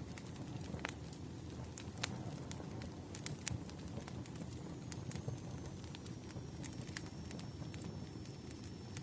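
Campfire crackling: irregular sharp pops and snaps of burning wood over a steady low rumble of flames. A faint high thin whistle comes in about halfway through.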